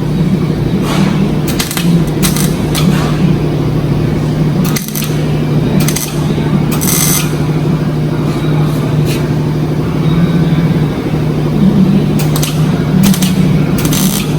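Welder welding up the straightened body metal: short crackling bursts, several times over, above a steady low hum.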